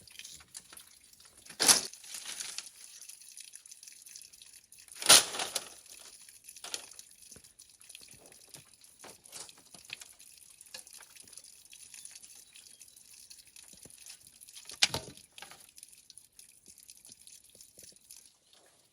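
Three sharp knocks, about two, five and fifteen seconds in, among lighter clicks and taps, over a steady high hiss.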